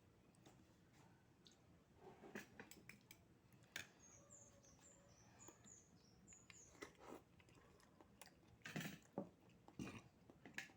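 Quiet eating sounds: soft chewing and small clicks, louder near the end. In the middle, a quick string of about nine short, high chirps.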